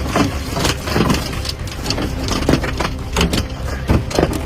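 Large hailstones pelting a car, many sharp irregular impacts a second, with the car's engine running steadily underneath.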